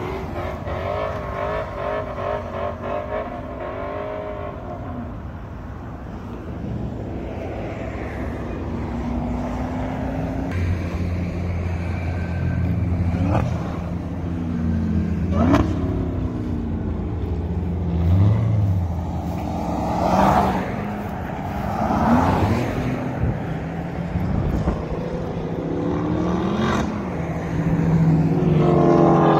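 V8 muscle-car engines under hard acceleration. One car revs as it passes close at first, then engines pull hard down the road, rising in pitch and dropping back through several gear changes. The sound swells loud near the end as a car comes nearer.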